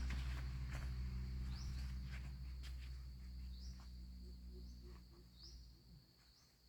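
Low hum of a passing motor vehicle's engine fading away over the first five seconds. A short, high, rising chirp repeats every second or two.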